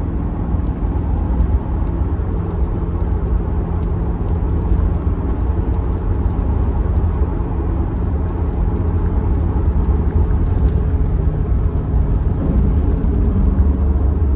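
2002 Pontiac Trans Am WS6's 5.7-litre LS1 V8 running steadily with a deep, even drone.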